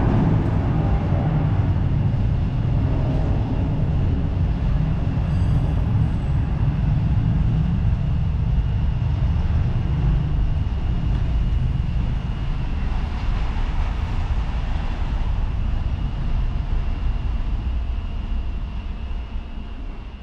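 Airliner engines running: a steady low rumble with a thin, steady high whine over it, growing gradually quieter over the last several seconds.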